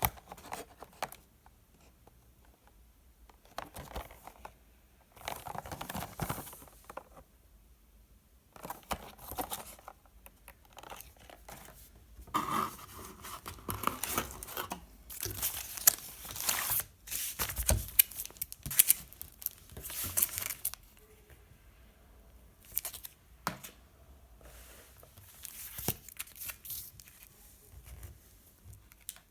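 Packaging being handled and torn open: tearing and crinkling in irregular bursts, with scattered clicks and taps, busiest through the middle stretch.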